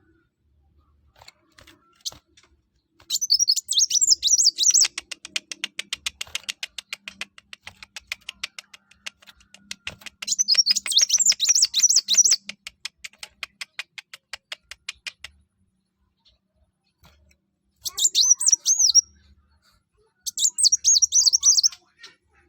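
A kolibri wulung (sunbird) singing in bursts of high, rapid twittering phrases, with a long run of fast ticking notes in the middle between phrases.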